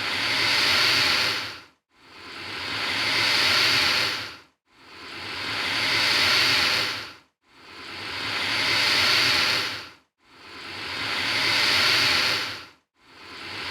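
Alligator hissing in a string of long hisses, each about two and a half seconds, swelling up and then dying away, one after another about every three seconds with brief silent gaps.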